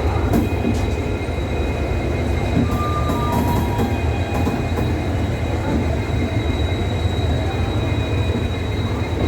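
Mahabodhi Express passenger train running along the track: a steady low rumble of the coaches with continuous wheel-on-rail noise.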